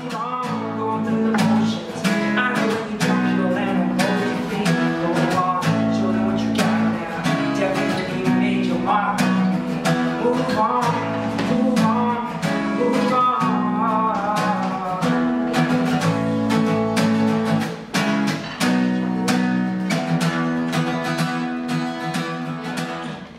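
Acoustic guitar strumming chords at a steady, quick rhythm in a live acoustic band set.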